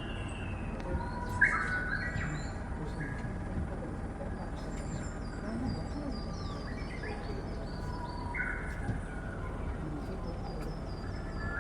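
Small birds chirping and twittering, with short chirps and higher rapid trills scattered throughout over a steady low background hum.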